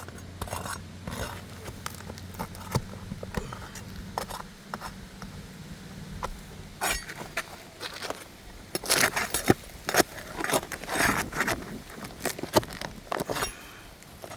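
Asphalt roof shingle being worked loose and pulled out: irregular scraping, cracking and clicking, busiest and loudest from about nine to eleven seconds in.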